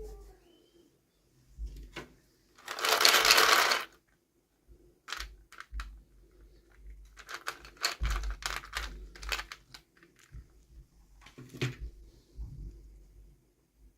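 Hands unboxing miniature plastic toys: a rustle of packaging lasting about a second, about three seconds in, then scattered small clicks and taps of plastic pieces being handled.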